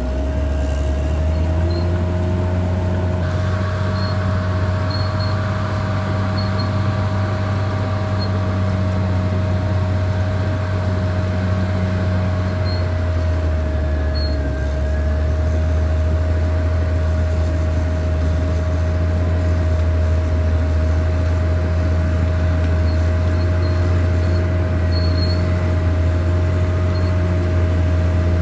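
Caterpillar D6R XL bulldozer's diesel engine running under load in a steady low drone, with a constant high whine above it. The drone drops slightly in pitch about halfway through, then holds.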